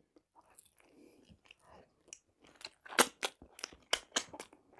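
Close-miked chewing of fried chicken skin and meat: near quiet at first, then from about halfway through a quick run of crunchy, smacking mouth clicks.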